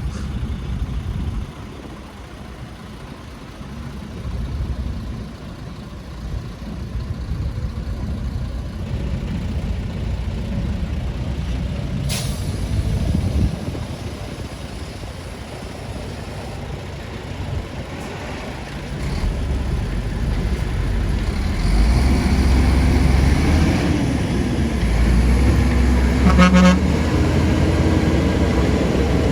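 Heavy diesel engines of earthmoving machines, dump trucks and a bulldozer, running with a low rumble that grows louder over the last ten seconds. A short horn toot sounds about 26 seconds in.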